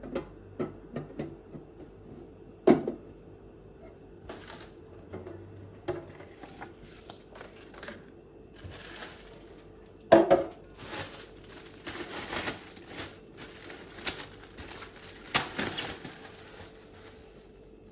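Household handling sounds: scattered knocks and clicks of objects being set down, with stretches of crinkling, rustling noise from about four seconds in, busiest in the second half, and a sharp knock about ten seconds in. A faint steady hum runs underneath.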